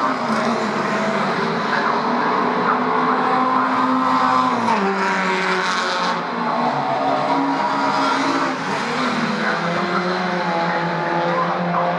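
Several classic touring race car engines running together. Their pitches mostly hold steady, and one drops in a step a little under halfway through.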